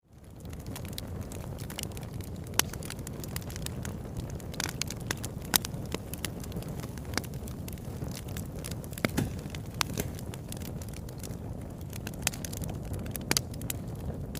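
Wood fire burning in a fireplace: a steady low rumble with irregular sharp crackles and pops, a few of them much louder than the rest. The sound fades in from silence at the very start.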